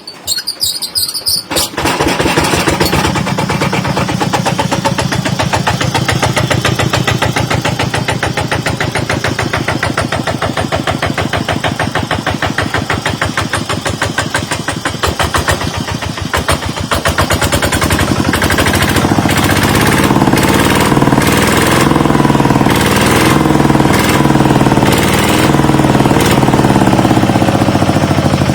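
Kubota RT110 single-cylinder diesel engine starting, catching within about two seconds and then running with a fast, even knock. It runs somewhat louder from about two-thirds of the way in.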